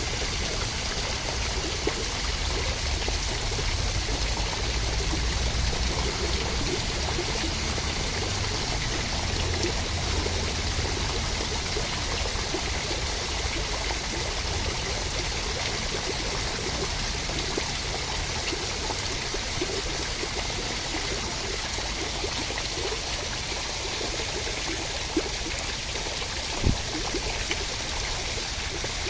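Continuous rushing water, a steady even wash with no letting up, and a single sharp tick near the end.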